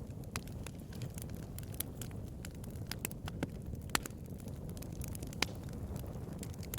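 Wood bonfire burning: a steady low rumble of flames with irregular sharp crackles and pops, a few louder pops standing out, one about four seconds in and another about five and a half seconds in.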